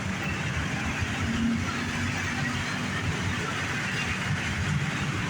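Steady vehicle noise: a continuous low rumble under an even hiss, with no distinct events.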